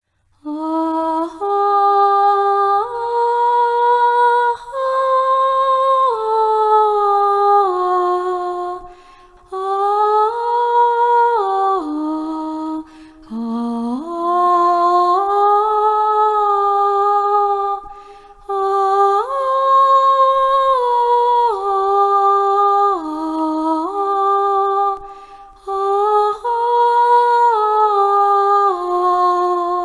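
A single voice humming a slow, wordless melody, holding each note and moving up and down in steps, in phrases separated by short breaks for breath.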